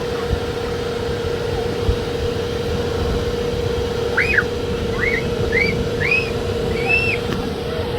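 A steady mechanical hum, with a run of five short whistled notes, each rising and then falling, in the second half.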